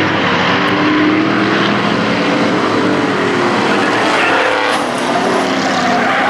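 Several hobby-class race trucks' engines running hard together, their overlapping pitches falling and rising as the pack goes through the corner.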